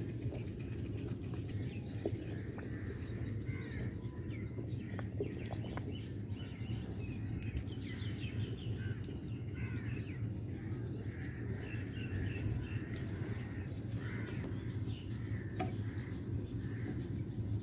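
Birds chirping and chickens clucking over a steady low rumble.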